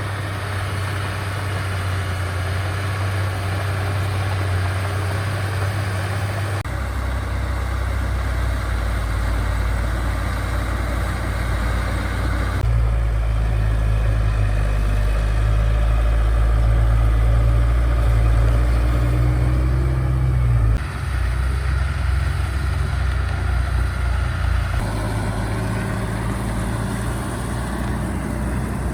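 Diesel engines of heavy earthmoving machines, bulldozers and dump trucks, running steadily. The engine note shifts abruptly several times.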